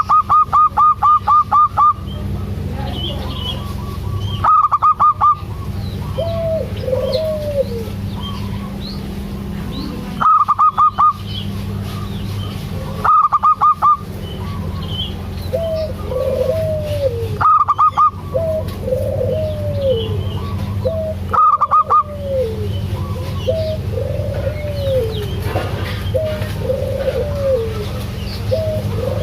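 Zebra doves (perkutut) calling: loud bursts of rapid, evenly spaced staccato notes recur every few seconds, the first lasting about two seconds and the later ones shorter, with softer arched coos in between. A steady low hum runs underneath.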